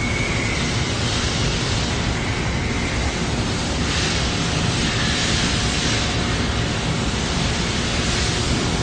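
Poreba TCG 160 engine lathe running, a steady even mechanical noise with a faint high whine.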